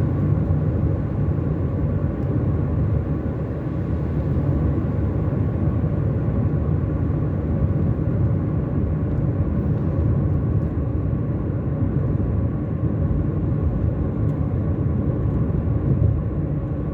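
Steady low road and engine noise of a car cruising along a motorway.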